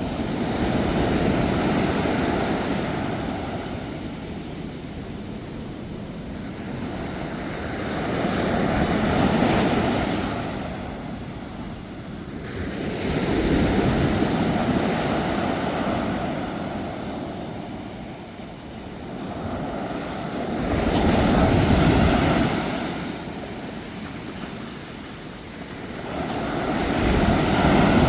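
Sea waves breaking on a shore, about five waves, each surging up and washing back over several seconds.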